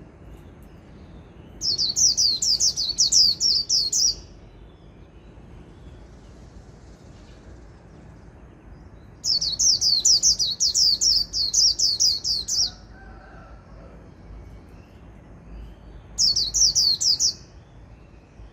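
A white-eye (vành khuyên) singing its 'líu' song: three bursts of rapid, repeated high downslurred notes, about four a second, the first two lasting a few seconds each and the last one short.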